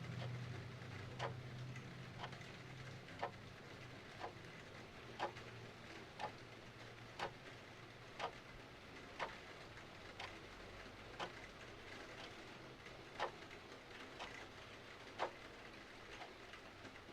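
Clock ticking about twice a second, alternating a louder and a softer tick, over steady rain hiss. A faint low rumble fades out over the first few seconds.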